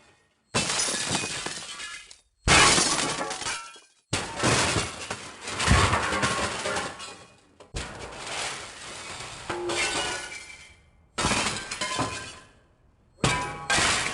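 A string of glass-smash sound effects: about seven separate crashes of breaking glass, each a sudden impact followed by shards tinkling and dying away, with short gaps between them and the last two close together.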